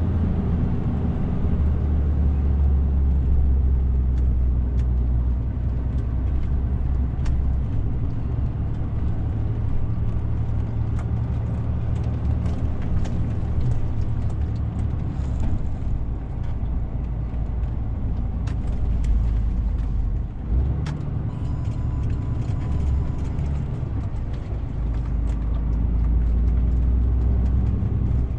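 DAF CF 450 truck's diesel engine running under way, a steady low drone with road noise. Scattered sharp clicks and rattles run through it, and the engine note drops briefly about two-thirds of the way through.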